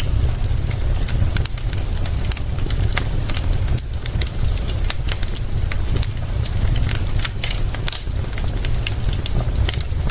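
Wood fire crackling, with many sharp irregular pops and snaps, over a steady low rumble.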